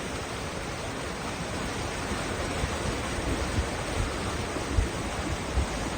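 Steady rushing of a creek and waterfall in a slot canyon, with a couple of soft low thumps in the second half.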